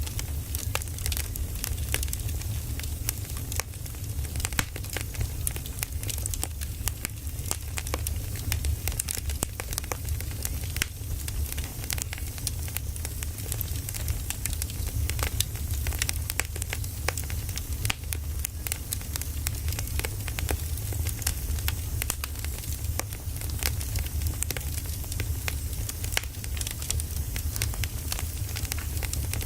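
Firewood burning, with frequent sharp crackles and pops over a steady low rumble.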